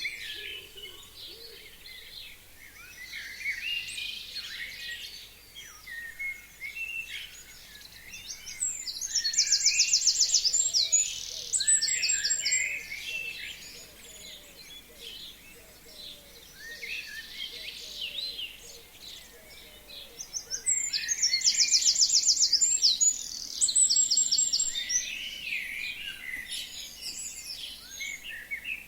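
Several forest songbirds singing. One bird twice sings a loud, fast, high trill ending in a flourish, about twelve seconds apart, while other birds chirp and call in between.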